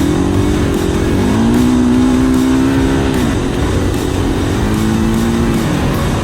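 Dirt bike engine running under throttle while riding: its pitch climbs about a second in, holds steady, eases off after about three seconds, then rises again briefly near the end, over a steady low rumble.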